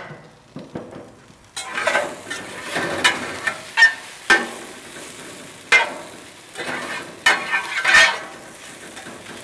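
Chopped vegetables (onions, carrots, celery) sizzling in a roasting pan on a gas grill, being browned. They are stirred with a spatula that scrapes and knocks against the pan several times.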